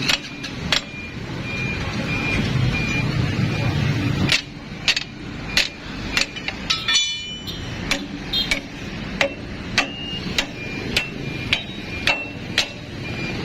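A hammer striking metal over and over, roughly two blows a second, each with a short metallic ring. A steady low engine rumble runs underneath and is louder in the first few seconds, before the blows settle into their rhythm.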